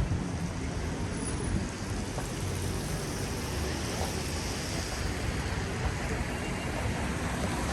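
Steady city ambience on a rain-wet street: rain and traffic noise, with a hiss swelling around the middle as tyres pass on the wet road.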